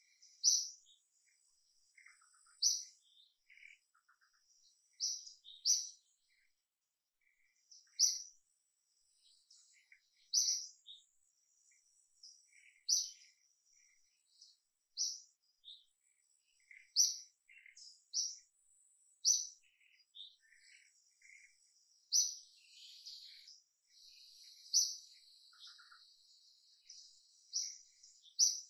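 Birds chirping: short high notes repeated every two seconds or so, some in quick pairs, with softer scattered calls in between.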